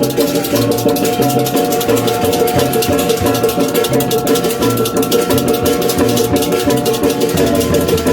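Balinese baleganjur gamelan playing for the procession: fast, continuous clashing of small cymbals over steady ringing metal tones and a pulsing low drum and gong beat.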